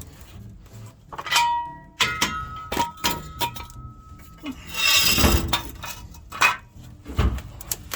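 Metal hand tools and truck parts clinking and knocking during work under a pickup. One strike about two seconds in leaves a ringing tone for a couple of seconds, and there is a scraping rattle midway.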